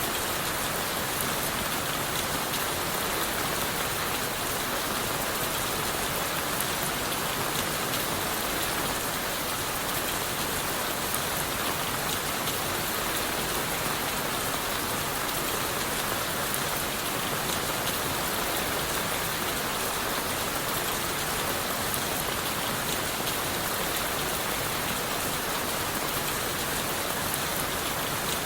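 Steady rain falling on leaves and wood: an even hiss with many small, separate drop ticks, unchanging throughout.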